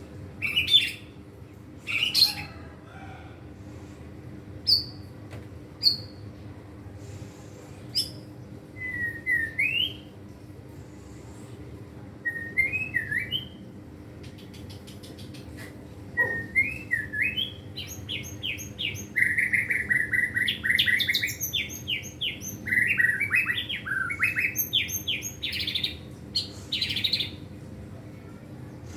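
White-rumped shama singing: scattered whistled phrases and sharp calls, then, a little past halfway, a long run of rapid, varied notes.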